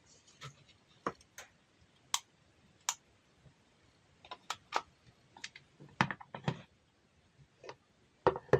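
Irregular sharp clicks and light taps, about a dozen spread unevenly, with a louder cluster of knocks near the end.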